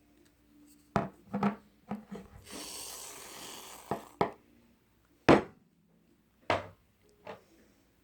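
A series of sharp taps or knocks, about six spread irregularly, with a rubbing, scraping noise lasting about a second and a half in the middle.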